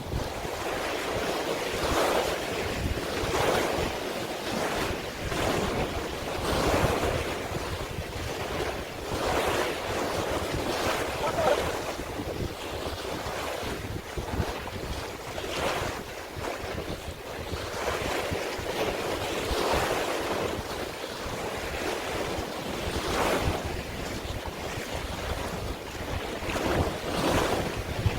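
Sea waves washing and splashing, swelling every few seconds, with wind buffeting the microphone.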